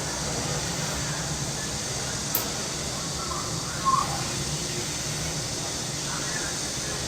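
Steady, unbroken drone of summer cicadas over a low rumble. A couple of faint short chirps come about three and four seconds in.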